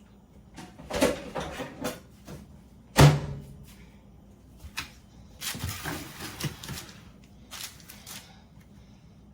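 Kitchen handling sounds: utensils and dishes clattering, with one sharp knock about three seconds in and a stretch of scraping and rustling later on.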